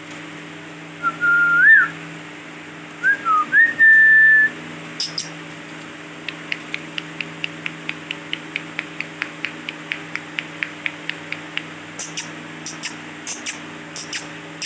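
Ringneck parakeet whistling: two short phrases of clear, gliding whistled notes, then a long run of quick falling ticks, about four a second, and a few short high chirps near the end.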